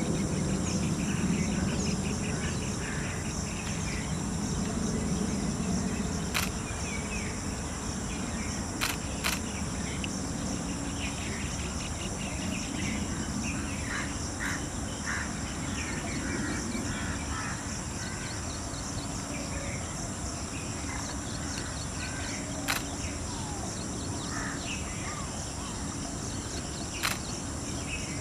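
Birds chirping and calling on and off over a steady high insect drone, with a low rumble underneath that is stronger in the first few seconds. A few sharp clicks are heard, about four in all.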